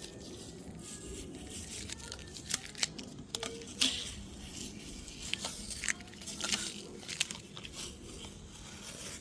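Tape being peeled off a freshly painted engine and crumpled: an irregular run of crackling tears and crinkles, with the sharpest pops a little before three seconds in and near four seconds in.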